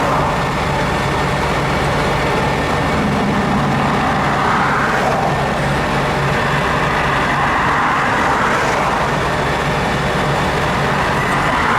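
Truck engine running steadily with a constant hiss of road noise over its low hum.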